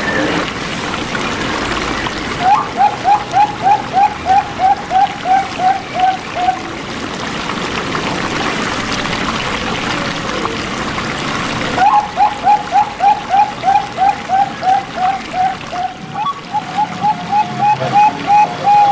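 Zebra dove (perkutut) calling in three bouts of short, evenly spaced cooing notes, about three a second, over a steady hiss like running water.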